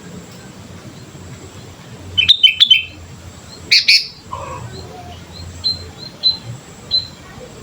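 Sooty-headed bulbul (kutilang) singing: a quick run of loud, bright whistled notes about two seconds in and another loud phrase near four seconds. After that come short, fainter chirps spaced about half a second apart.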